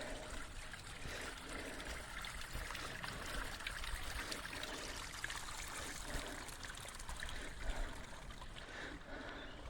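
A stream trickling steadily over rocks.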